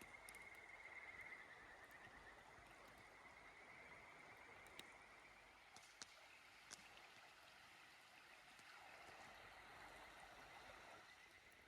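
Faint, steady sound of river water flowing, with a few small sharp clicks in the middle.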